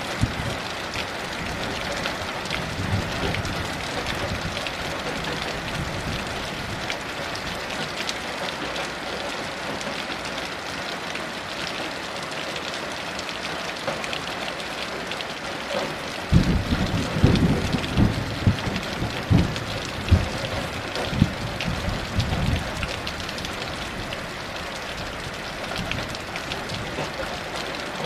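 Steady heavy rain falling, with a roll of thunder starting a little past halfway that rumbles low for about six seconds in several swells before fading back under the rain.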